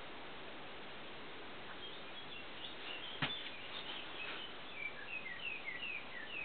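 A small bird chirping in short, quick falling notes over a steady hiss, with one sharp click about three seconds in.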